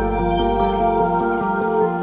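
Background music: soft new-age track with held tones over a pulsing pattern of repeated notes.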